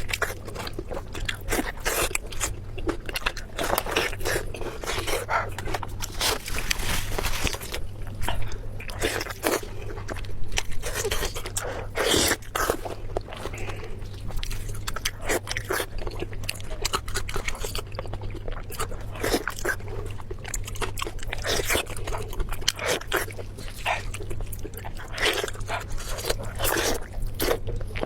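Close-miked eating: irregular crunching, biting and chewing of food, a steady stream of small crackles and wet mouth sounds, over a faint steady low hum.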